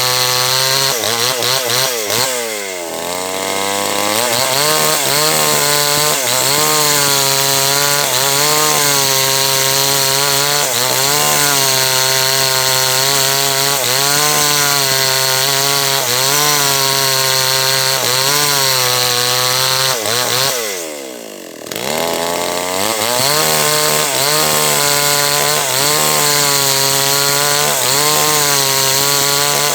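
Small H&L Pro 5800 two-stroke chainsaw running at high revs while cutting through a large teak log, its pitch wavering as the chain bites. Twice the engine speed falls away steeply and then climbs back, about two to three seconds in and again about twenty-one seconds in.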